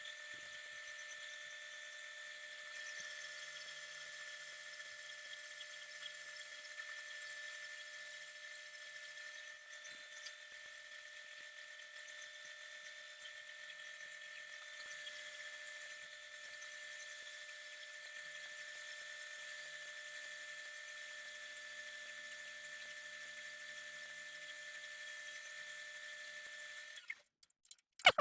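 A power tool's motor running steadily with a high whine, cutting off about a second before the end, followed by a couple of sharp clicks.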